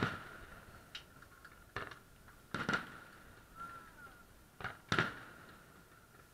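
Distant aerial fireworks shells bursting, about six sharp bangs at uneven intervals. The loudest comes right at the start and another near the end.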